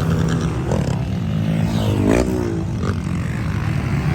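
Motocross dirt bikes revving, engine pitch rising and falling several times over a steady low drone.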